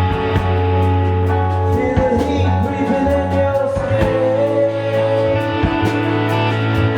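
Live band music in an unplugged set: guitar, sustained bass notes and a steady percussion beat. A wavering lead melody rises over them for a few seconds in the middle.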